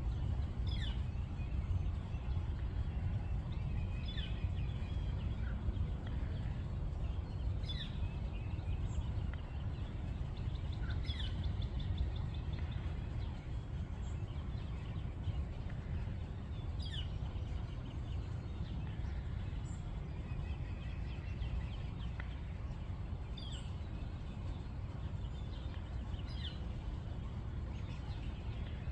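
A songbird repeating a short call that sweeps down in pitch, about every three to four seconds, over a steady low background rumble.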